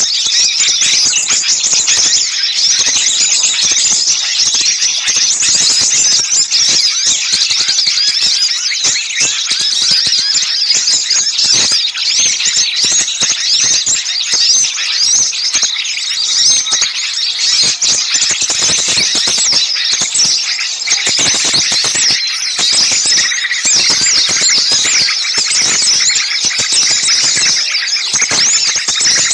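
Many small songbirds calling at once in a dense, noisy chorus of rapid, high-pitched chirps and twitters. It is a bird-lure (pikat) recording of agitated small-bird calls, used to draw small birds in.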